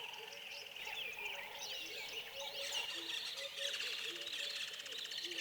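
Many birds chirping, trilling and calling over one another, a busy mixed chorus, with short lower notes repeating underneath.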